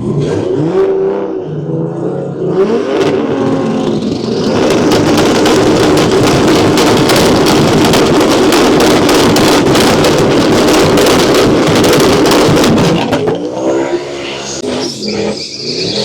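Drag racing car engines revving with rising pitch, then a loud full-throttle run lasting about nine seconds that falls off near the end.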